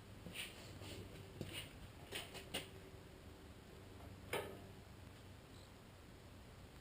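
Faint scattered clicks and knocks from something being handled, then one sharper clink about four seconds in that rings briefly.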